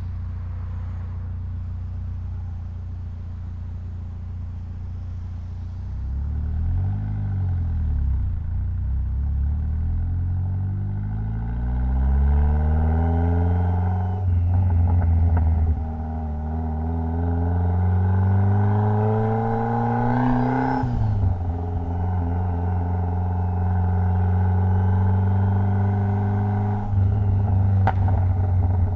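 Mitsubishi Lancer Evolution X's turbocharged 2.0-litre four-cylinder engine under way: steady low running, a quick rise and fall of the revs about seven seconds in, then the pitch climbing through two gears with a change between them. The revs drop sharply when the throttle is lifted a little past two-thirds through, and it settles to a steady cruise.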